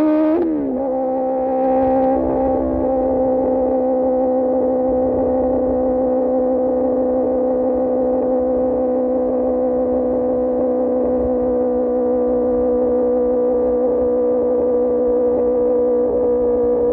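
QJMotor SRK600 inline-four through an Austin Racing GP1R exhaust. The engine note dips sharply and recovers about half a second in, as at a gear change, then holds a steady pitch at constant cruising speed.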